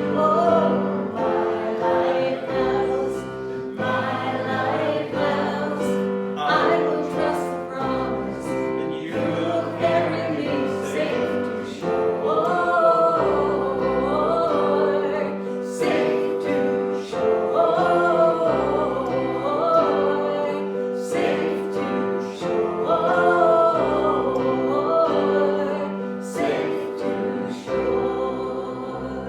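Congregation singing a worship song together with piano accompaniment.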